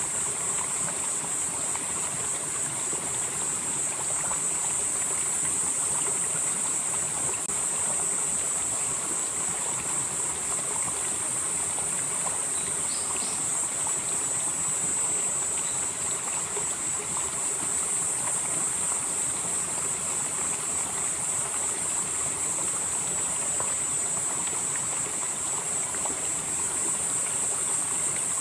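Valley stream flowing steadily over rocks, with a continuous high-pitched insect chorus above it that swells and fades every few seconds.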